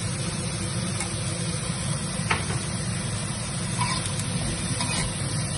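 Chopped onion and ginger frying in a steel wok: a steady sizzle, with a few light touches of a steel ladle against the wok as it is stirred.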